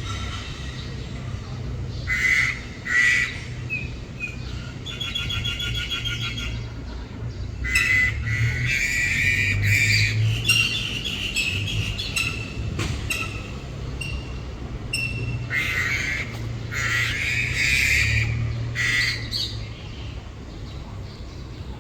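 Birds squawking and chattering, harsh calls coming again and again in short bouts, with a steady low hum underneath.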